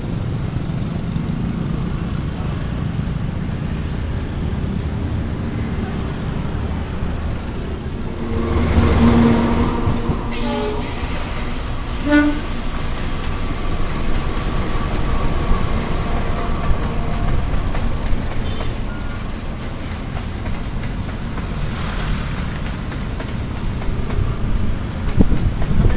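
Trains passing on the tracks with a steady low rumble. A diesel locomotive horn blasts about eight seconds in, and a shorter horn toot follows about twelve seconds in.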